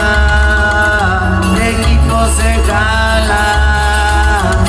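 Regional Mexican band playing a corrido: singing with long held notes over guitar and a heavy bass line.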